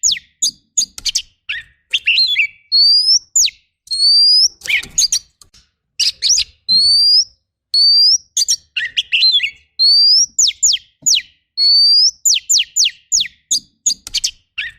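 Oriental magpie-robin song: a rising whistle followed by a quick run of sharp downward-sweeping notes and short chattering bursts, the same phrase repeating about every two seconds.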